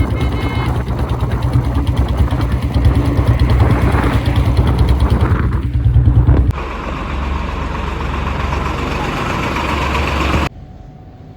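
Royal Enfield Bullet single-cylinder engine pulling at low revs in fifth gear while riding, with an even low thumping beat. About six and a half seconds in the sound changes abruptly to a steadier, quieter drone, and near the end it drops suddenly to a much quieter background.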